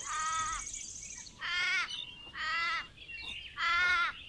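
An animal calling four times, about once a second, each call a short quavering note with a wavering pitch.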